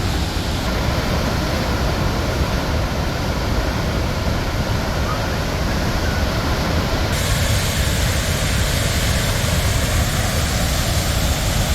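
Waterfall water rushing through a narrow rock gorge: a loud, steady roar.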